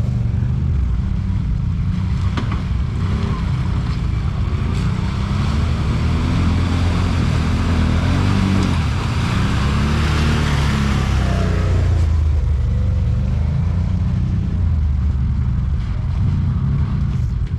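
Off-road side-by-side engine running as it drives along a trail, its pitch rising and falling with the throttle. A hissing rush swells in the middle and fades away again.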